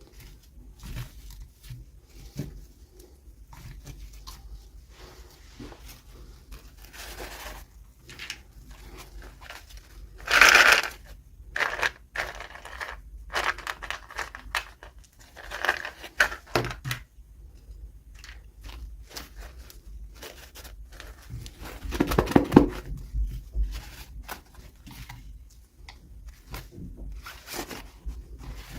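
Toy packaging being opened by hand: a run of rustling, tearing and crinkling with small clicks and taps. Two louder rustling bursts come about ten and about twenty-two seconds in.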